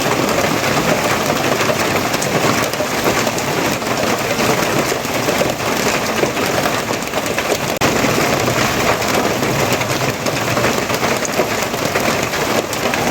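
Heavy rain falling steadily: a dense, even hiss of rain with many small drop impacts and no let-up.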